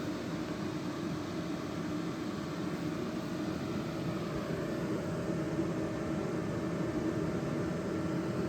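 Electric kettle heating toward the boil with a steady rushing rumble, mixed with the cooling fans of an EcoFlow Delta Max 2000 power station running under a load of about 2 kW. Faint steady whining tones sit above the noise.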